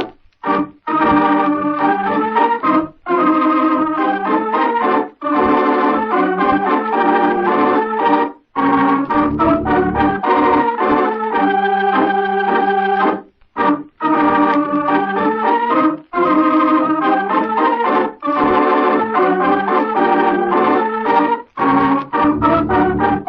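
Organ music interlude: a melody of short notes and chords, with brief pauses between phrases.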